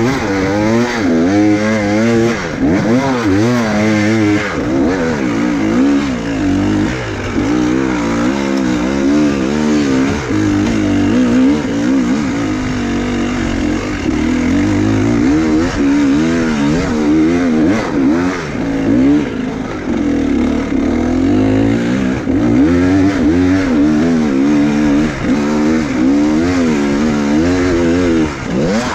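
Enduro motorcycle engine revving up and down over and over as the throttle is worked hard through technical terrain, its pitch rising and falling every second or so.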